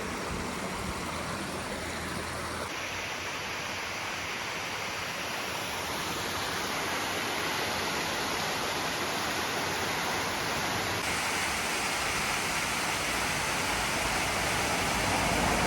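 Steady rushing of a waterfall, a dense even roar of falling water that grows slightly louder toward the end.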